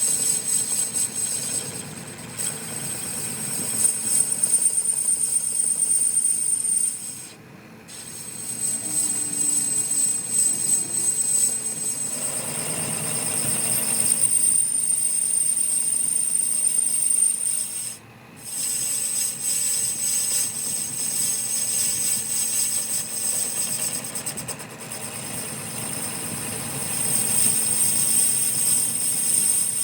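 Steady rasping metalworking noise with a thin high whine running through it, dropping out briefly twice.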